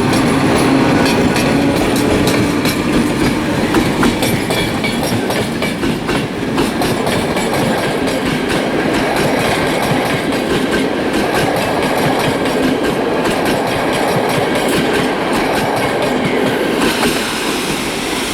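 A train running through the station, a loud steady rumble with its wheels clicking over the rail joints.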